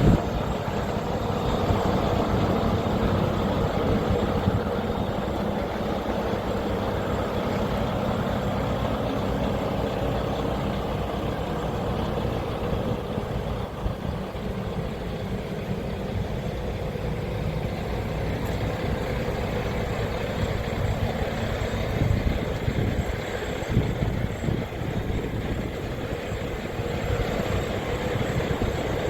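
Heavy-truck diesel engine, the Mack MP8 of a 2021 Mack Anthem sleeper, running steadily with no revving, with a few brief knocks along the way.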